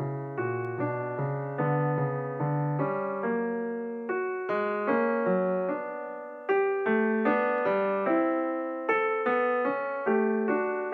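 Solo piano music, a gentle repeating pattern of notes struck about twice a second, each note ringing and dying away.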